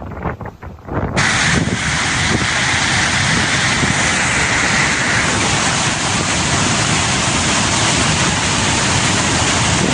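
Gusty wind buffeting the microphone, then about a second in a sudden switch to the loud, steady rush of a flooded river in spate after a cloudburst.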